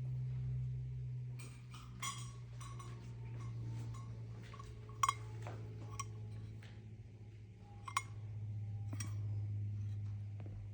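A bowl clinking and tapping: a dozen or so short, light clinks scattered through, the sharpest about five and eight seconds in, over a steady low hum.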